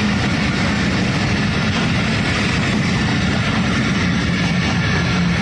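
Diesel-hauled passenger express train running past the platform: a loud, steady rumble and clatter of wheels on the rails.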